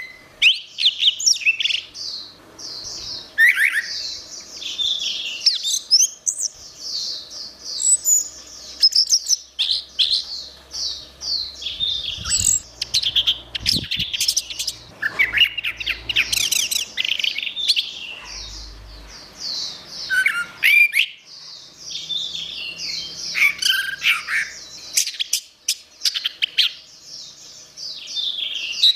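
Orange-headed thrush singing a fast, varied song of short high notes, chirps and trills, nearly without a break.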